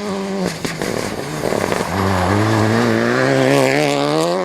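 Rally car engine at high revs: the pitch drops sharply soon after the start, then about two seconds in climbs steadily as the car accelerates hard, with a few sharp clicks near the start.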